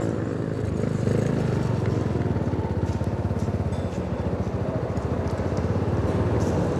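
A Yamaha Sniper 150's single-cylinder four-stroke engine running steadily at low speed, with a fast even pulse.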